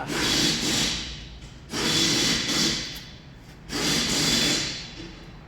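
Hand tool scraping in long, noisy strokes, about one every two seconds.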